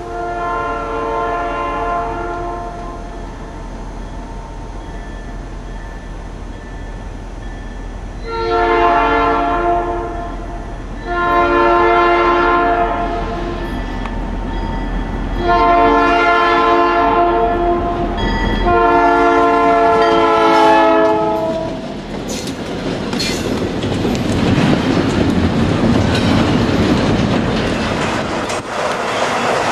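Diesel locomotive's multi-note air horn sounding five long blasts: one at the start, then after a pause four more in close succession, over a steady low engine drone. Then the train passes, with a rising rush of wheel and rail noise and clickety-clack.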